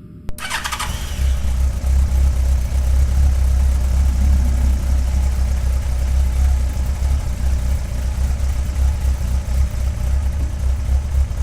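A 2002 Yamaha FZS1000's inline-four engine, on its stock exhaust, starts up with a short whir about half a second in and then settles into a steady idle with a deep exhaust rumble.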